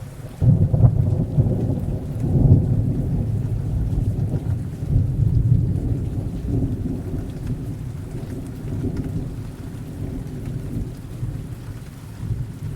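A long roll of thunder, rumbling low, loudest in the first few seconds and slowly easing off, over steady rain.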